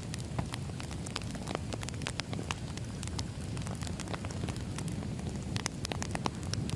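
Firewood burning, with frequent irregular sharp crackles and pops over a steady low rumble from the fire.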